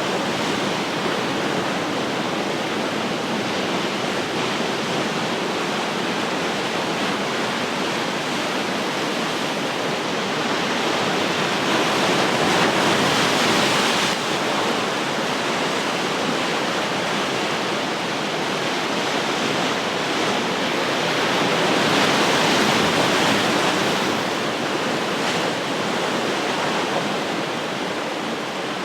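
Ocean surf washing onto the shore in a steady rush, swelling louder twice, about 12 and 22 seconds in.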